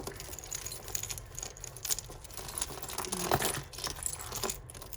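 Costume jewellery clinking and rattling as pieces are handled and sorted: a steady run of small metallic clicks and taps, with a sharper knock a little over three seconds in.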